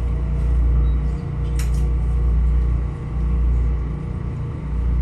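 Metro-North M7A electric commuter train heard from inside the passenger car: a steady low rumble with a faint steady hum over it, and a brief metallic click about a second and a half in.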